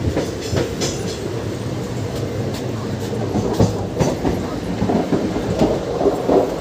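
Passenger train running, heard from inside the coach: a steady rumble with irregular clicks and knocks of the wheels and coach.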